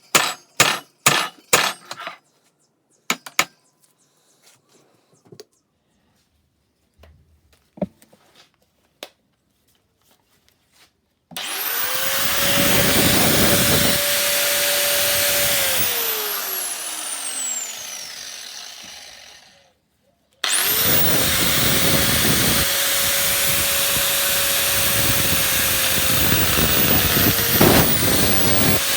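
A few sharp metal clinks and taps, then an angle grinder spins up about eleven seconds in and grinds, winds down with a falling whine and stops, then starts again and grinds steadily. It is cutting into a seized CV joint to split it off the drive shaft.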